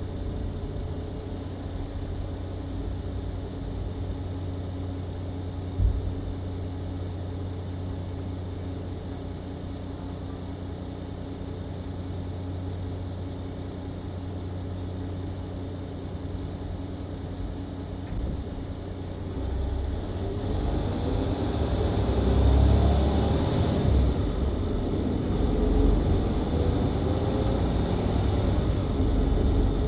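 Mercedes-Benz Citaro C2 LE hybrid bus engine idling steadily, heard from inside the bus, with a single sharp knock about six seconds in. About twenty seconds in, the engine revs up and the pitch climbs as the bus pulls away from the stop through its Voith automatic gearbox.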